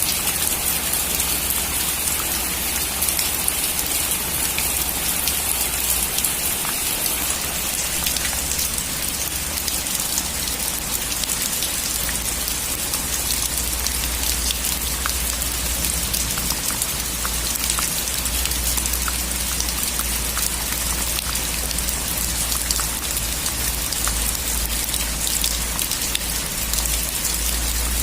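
Heavy rain falling on a metal roof: a steady hiss dotted with many sharp drop ticks, over a low rumble that grows stronger about halfway through.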